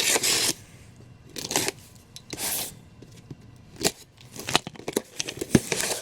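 Packaging being handled while unboxing: several short bursts of rustling and tearing of paper and plastic, with a few sharp clicks near the end.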